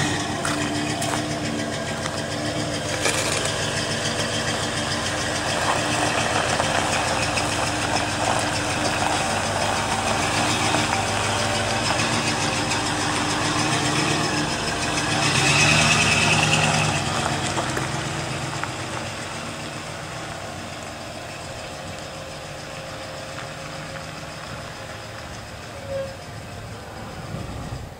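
A vehicle engine running steadily, swelling briefly about halfway through, then fading away gradually.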